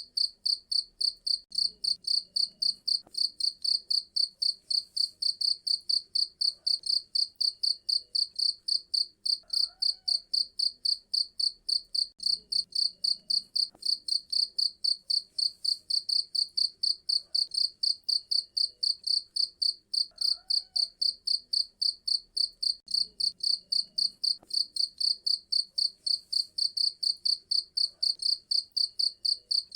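Cricket chirping in a steady, high-pitched rhythm of about four chirps a second.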